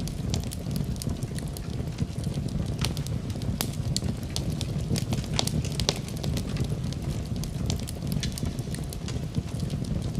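Fire in a fireplace crackling: frequent sharp pops and snaps at irregular intervals over a steady low rumble of the flames.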